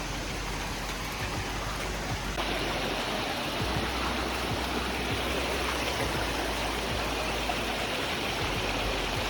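Flowing stream water rushing steadily over rocks. The rush grows brighter and hissier about two and a half seconds in.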